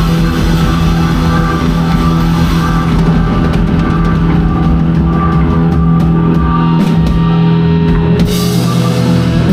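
Rock band playing live: a steady held chord from guitar and bass over a drum kit.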